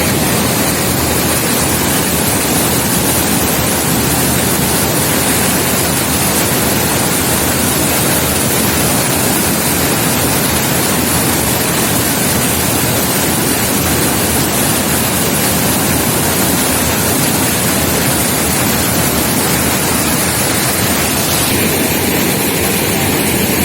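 Heavy rainwater rushing over a big dam in a steady, loud roar.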